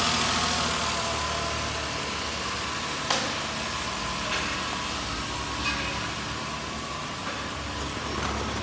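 Infiniti QX60's 3.5-litre VQ35DD V6 idling steadily during an engine test. A sharp click comes about three seconds in, followed by a couple of fainter ticks.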